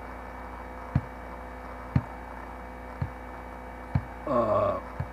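Steady low electrical-sounding hum with soft thuds about once a second, and a brief voice-like sound near the end.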